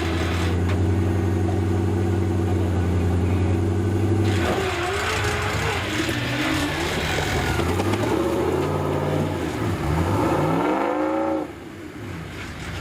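Off-road 4x4's engine running at a steady pitch for about four seconds, then revving up and down repeatedly, before the sound falls away sharply near the end.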